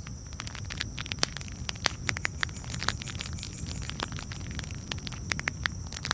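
Campfire crackling, with irregular sharp pops and snaps over a steady low rumble of burning wood.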